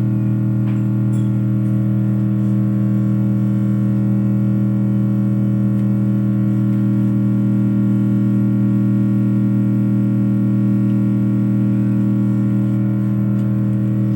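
Steady, loud low-pitched electronic tone with a buzz of several overtones, holding unchanged throughout: a test tone played through a car audio amplifier and speakers.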